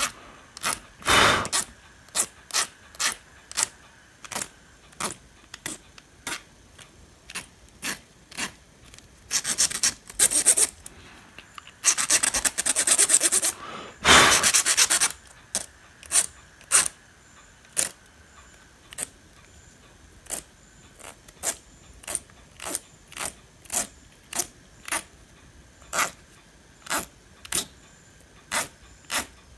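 Short scraping strokes on metal, about one or two a second, with longer continuous runs about a third and half way through: rusty transformer pins being rubbed clean so that solder will take.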